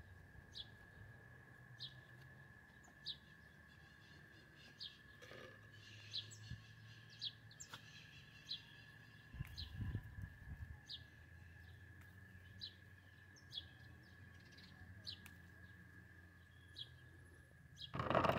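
Faint bird chirps: a short, high note repeated about once a second, over a steady thin high tone. Near the end comes a brief louder rustle and knock.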